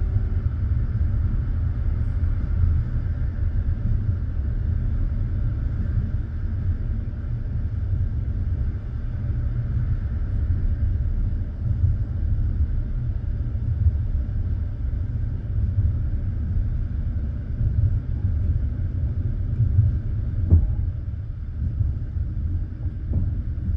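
Passenger train carriage running along the line, heard from inside: a steady low rumble of wheels on rails, with a few sharp knocks from the wheels near the end.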